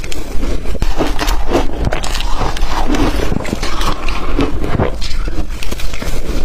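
Close-miked chewing of blender-crushed ice: a dense run of loud crunches and crackles as the ice is bitten and ground between the teeth.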